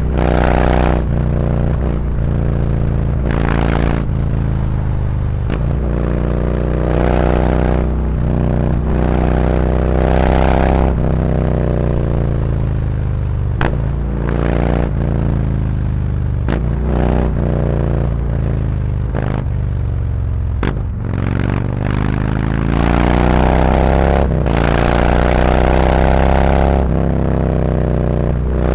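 Harley-Davidson Road Glide V-twin through SuperTrapp 4-inch slip-on mufflers, riding in traffic: it pulls up through the gears with short breaks at each shift, then the pitch falls over about ten seconds as it slows, and it accelerates again near the end.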